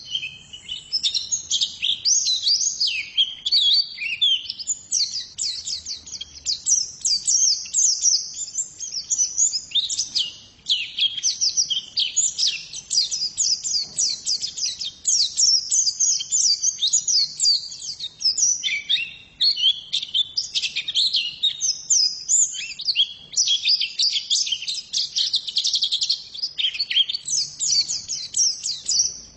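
Female pleci (white-eye) singing a long, fast twittering song of rapid, high, sweeping chirps, almost without a break, with brief pauses about ten and eighteen seconds in.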